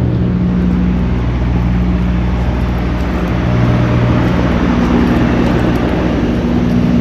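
A steady low mechanical drone with an even hum that holds its pitch.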